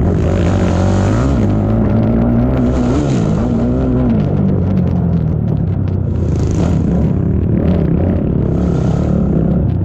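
ATV engine running hard, its pitch rising and falling with the throttle, under a hiss that comes and goes every few seconds.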